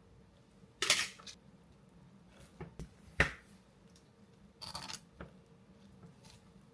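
Kitchen handling sounds while preparing food: a short rustling scrape about a second in, a sharp click a little past three seconds with a few lighter taps before it, and another short rustle near five seconds.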